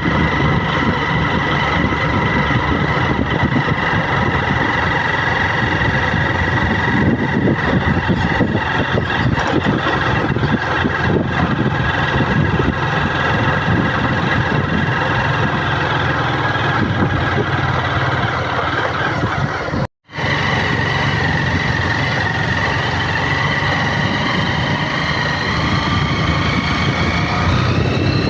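A motor running steadily, with a high whine over a rumble; the whine rises in pitch near the end. The sound cuts out completely for a moment about twenty seconds in.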